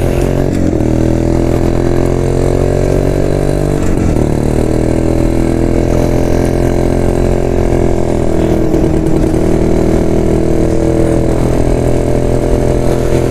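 1972 Jawa motorcycle's two-stroke single-cylinder engine running steadily, its note wavering briefly a few times, after being restarted from a fuel overflow.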